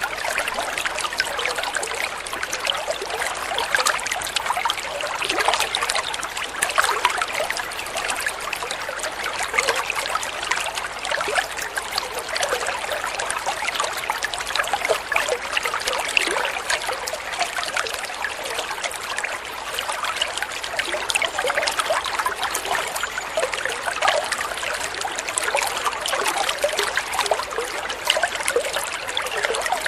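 Flowing water trickling steadily with a constant patter of small splashes, with no break or change.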